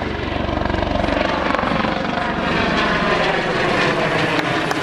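Helicopter flying by, its rotor beat strong at first and fading after about a second, while the turbine and rotor noise slides gently down in pitch as it passes.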